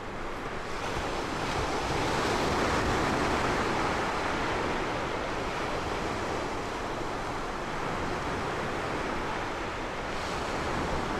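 Ocean surf: a steady rush of waves that rises over the first two seconds and then holds.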